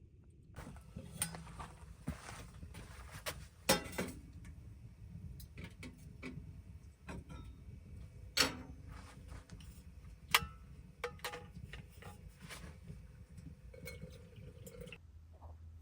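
Scattered light knocks and clinks of small objects being handled, with three sharper knocks spread through, over a low steady hum.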